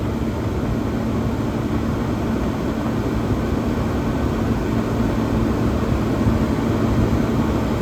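1978 Comfort-Aire Quietmaster 29,000 BTU room air conditioner running on high cool: a steady rush of fan air over a constant low hum.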